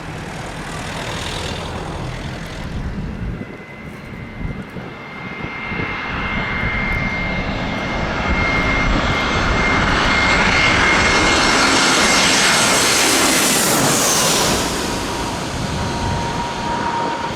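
Airbus A320 jet engines on a low landing approach, growing steadily louder with a high steady whine over a low rumble; about fourteen seconds in, as the airliner passes overhead, the whine drops to a lower pitch and the sound eases off.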